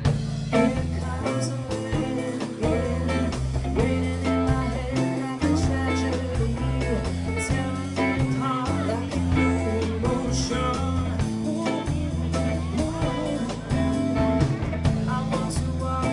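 Live band playing a pop-rock song: electric guitar, bass guitar and drum kit at a steady mid-tempo.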